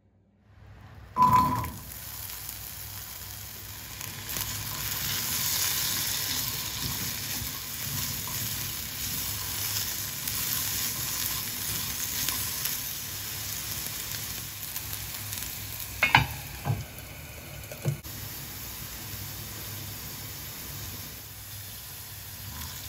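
Diced potato frying in oil in a non-stick pan, sizzling steadily while being stirred with a silicone spatula. The sizzle starts about a second in with a loud knock, and a few sharper knocks come later.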